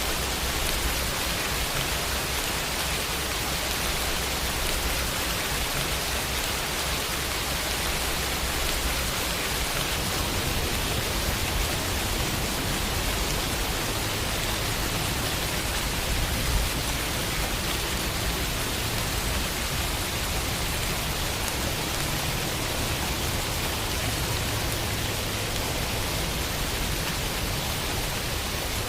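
Steady summer rainfall pattering on a window, an even hiss of rain with no let-up. A single soft low thump about halfway through.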